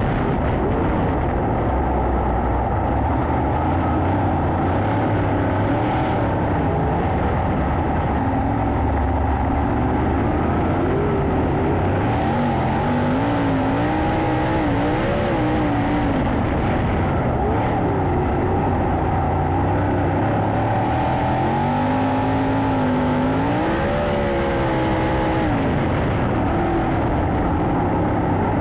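Several 410 sprint cars' V8 engines racing around a dirt oval. Their pitch keeps rising and falling as the cars power down the straights and ease off into the turns, over a steady, loud rumble.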